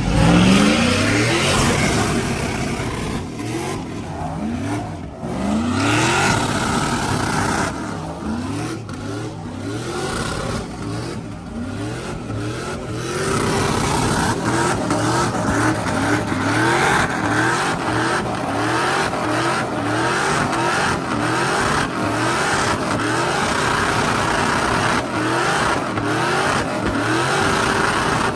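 Truck engine revving hard over and over, its pitch climbing and falling back about once a second, with a sharp loud rise at the very start.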